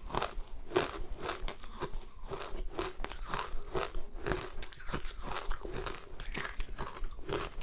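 Close-miked chewing of powdery matcha ice: a steady run of crisp crunches, about three a second.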